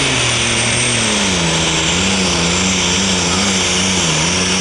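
Massey Ferguson pulling tractor's engine running flat out as it pulls the sled down the track. Its pitch drops about a second in and then wavers up and down, with a thin high whistle above it.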